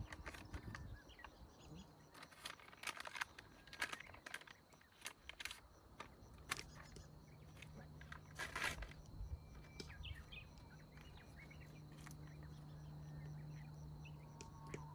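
Faint scattered rustles and clicks, with a few bird chirps, and a low steady hum that comes in about halfway through.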